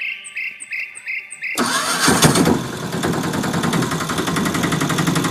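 A DIY miniature tractor's small engine starts abruptly about a second and a half in, then keeps running with a fast, even beat.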